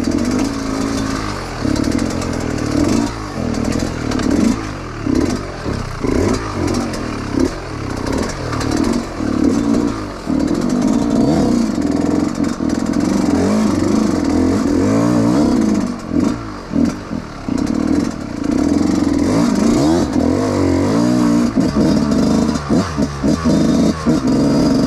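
Trail dirt bike engine revving up and falling back again and again as the throttle is opened and cut, with some clatter from the bike working over rough ground.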